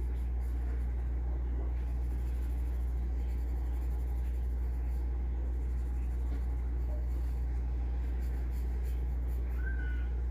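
Graphite pencil scratching across paper in short strokes, over a steady low hum.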